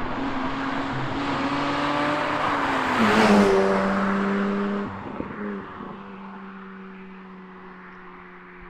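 A car drives past at speed, its engine note rising as it approaches. About three seconds in, at its loudest, the pitch drops as it passes, then it fades away steadily.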